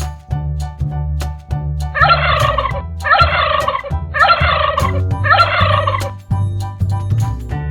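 Turkey gobbling four times in quick succession, each gobble under a second long, over background music with a steady bass beat.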